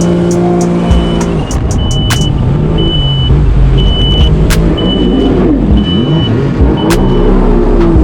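Yamaha FZR WaveRunner jet ski engine running under way, its pitch dipping and rising as the throttle changes. A high beep repeats about once a second through the middle, with a few sharp clicks.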